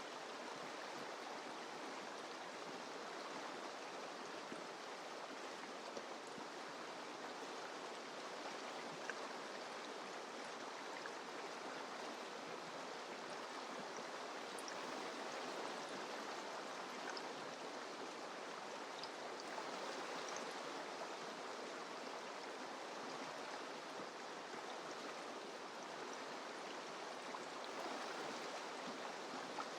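Mountain river running over rocks: a steady rush of flowing water, with small splashes flicking through it.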